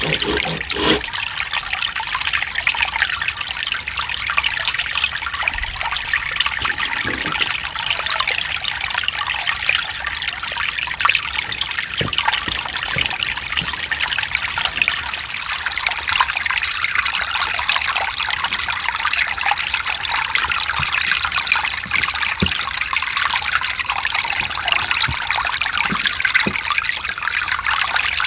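Mountain stream flowing over rocks: steady babbling and trickling water, with small splashes now and then.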